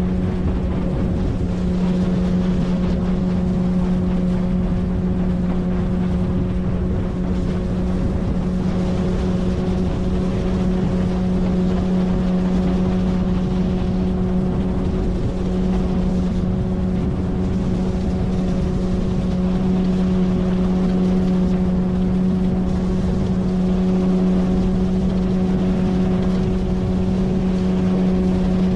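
A 9.8 hp outboard motor pushing a small inflatable boat, running at a steady speed with an even, unchanging tone.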